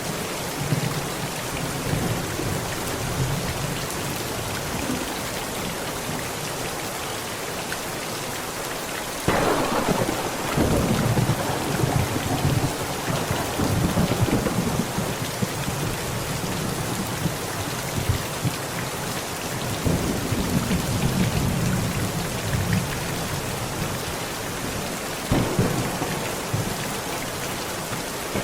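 Heavy rain falling steadily on a tent in a thunderstorm. About nine seconds in a sudden thunderclap breaks into a long rolling rumble, and two more rumbles of thunder swell up later.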